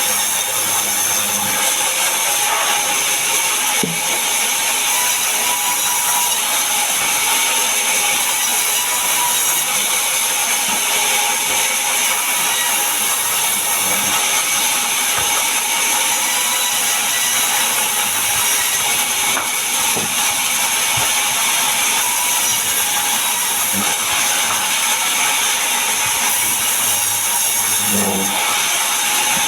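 Power saw running steadily through mahogany wood, a continuous loud machine noise with a constant whine and a hiss of cutting, and a few faint knocks.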